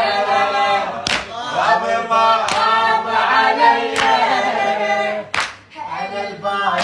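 Unaccompanied voices singing a Shia latmiyya lament for Husayn, in long wavering melodic lines. A sharp hand strike marks the beat about every second and a half.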